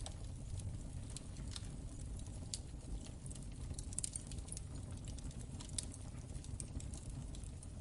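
Crackling fireplace fire: a steady low rumble of flames with irregular sharp pops and snaps from the burning wood.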